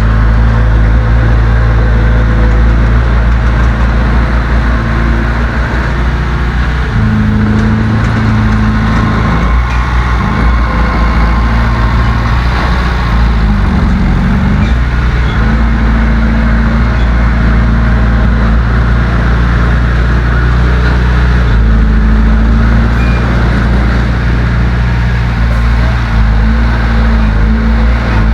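Heavy-equipment diesel engine running loud under load, its pitch stepping up and down several times as the throttle changes, with a brief drop and rise in engine speed about halfway through.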